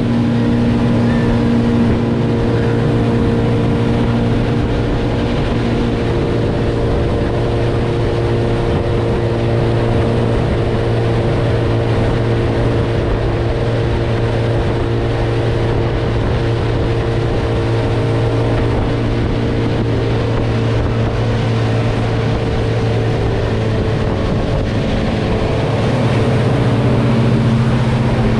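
Motorboat engine running at a steady speed, with the wash of the hull through the water underneath; its pitch shifts a little near the end.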